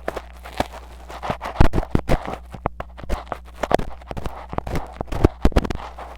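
Metal ear pick scraping hard deep inside a mini microphone's ear: a fast, irregular run of scratches and sharp clicks.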